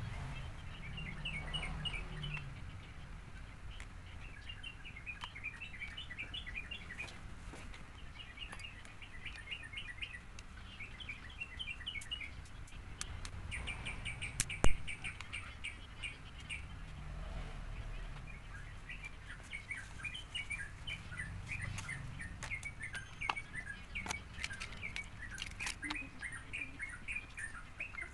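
Small birds chirping in quick twittering runs throughout, with scattered light clicks and one sharp click about halfway through as a smartphone's back cover is pressed into place along its edges.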